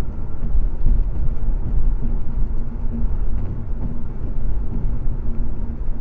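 Steady low vehicle rumble of road and engine noise, with a faint steady hum above it; it cuts in suddenly at the start.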